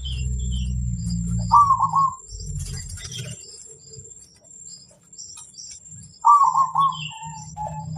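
Zebra dove (perkutut) cooing: two rippling coo phrases, one about a second and a half in and a longer one near the end that trails off lower. Faint high chirps from small birds and a low rumble are heard behind them.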